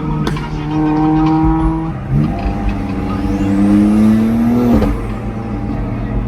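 Car engine under acceleration, its pitch climbing steadily for a few seconds, then dropping suddenly at a gear change near the end.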